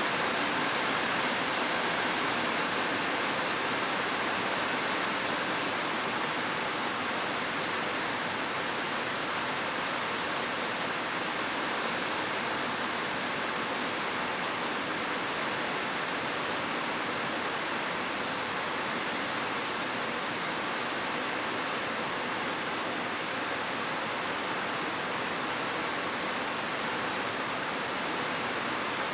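Heavy rain falling steadily, an even hiss without separate drops standing out.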